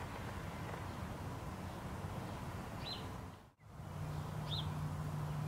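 Quiet garden ambience: a steady background hiss with two short, falling bird chirps. A low steady hum comes in after a brief dropout about three and a half seconds in.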